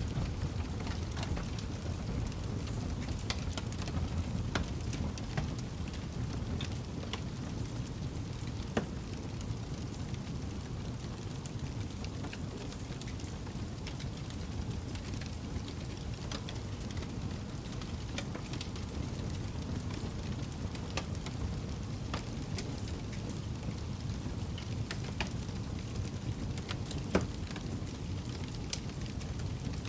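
Campfire burning: wood crackling with scattered sharp pops over a steady low rumble, with two louder pops, one about nine seconds in and one near the end.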